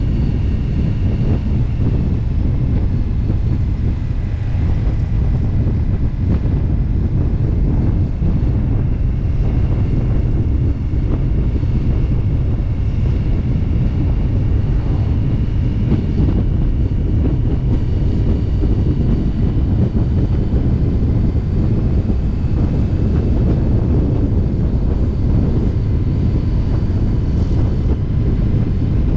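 Motorcycle cruising at a steady road speed: engine running under heavy wind rush on the microphone, steady throughout.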